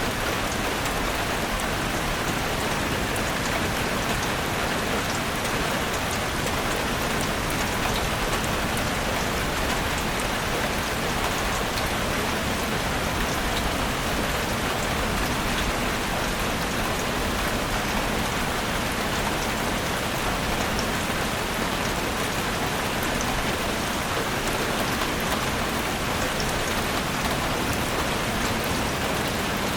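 Steady rain falling in a forest, with a dense even hiss and scattered individual drops ticking on surfaces.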